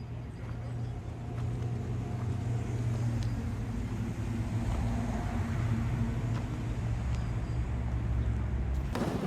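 A large vehicle's steady, low humming rumble that grows louder over the first few seconds. A short, sharp noise cuts across it near the end.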